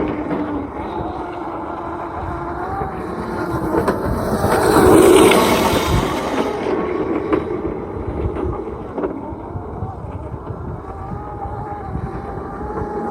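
Electric Crazy Cart drift kart driving, its motor whine wavering up and down in pitch over the rumble of small wheels on the ground, with a louder hissing surge about five seconds in.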